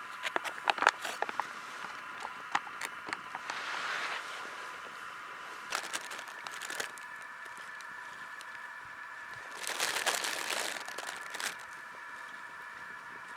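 Crinkling and crunching handling noises: a quick run of sharp clicks in the first second or so, then scattered rustling bursts, over a steady high hiss.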